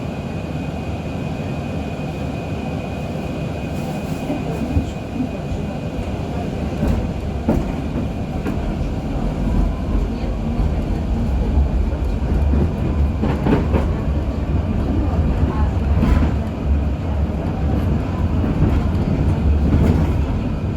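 KTM-23 (71-623) tram heard from inside the passenger cabin as it pulls away from a stop and gains speed: the rumble of wheels on rail builds, with a faint rising whine and a few knocks over rail joints.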